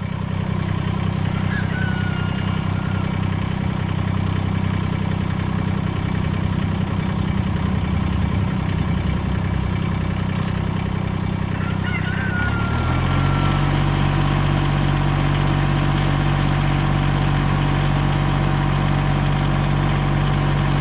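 Massey Ferguson GC1710 sub-compact tractor's diesel engine running steadily with a rear-mounted reverse tiller. About twelve seconds in, the engine's pitch steps up and holds there.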